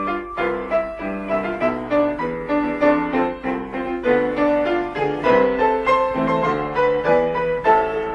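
Piano playing the instrumental introduction of a song, a running melody over chords.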